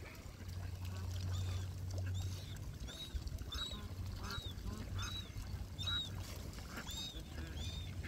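A bird in a feeding flock of ducks, ibis and moorhens gives a series of high, short peeping calls, about two a second, starting a second or so in. A low rumble sits under the first couple of seconds.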